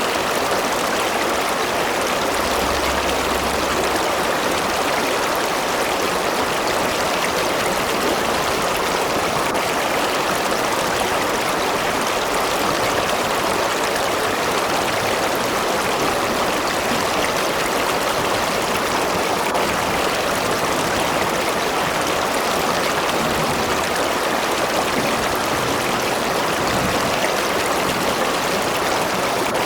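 A river or stream flowing steadily over rocks, a continuous rushing of water.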